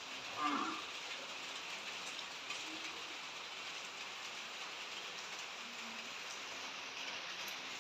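Steady rain falling, an even hiss throughout, with one brief louder sound about half a second in.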